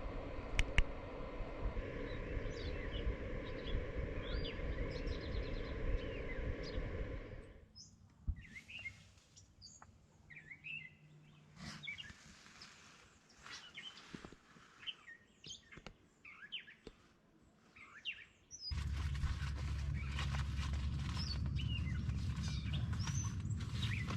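Small songbirds chirping and calling in short rising and falling notes. A steady low background noise with a faint hum runs under them for the first seven seconds or so, drops away to leave the birds alone, then a louder low rumble comes in suddenly about three-quarters of the way through.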